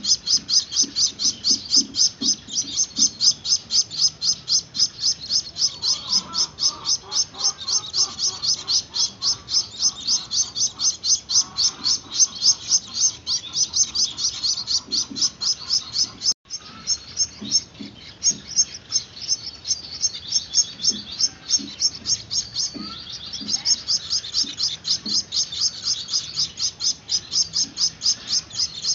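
Gouldian finch chicks begging for food with a fast, steady stream of high-pitched chirps, about four a second, breaking off for an instant a little past halfway.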